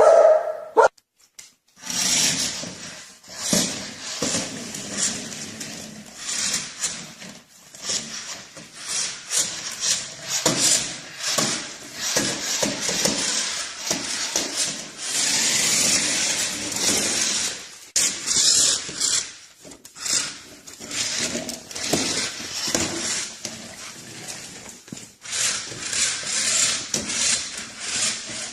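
A dog's noises amid irregular scratchy rustling, with no clear barks.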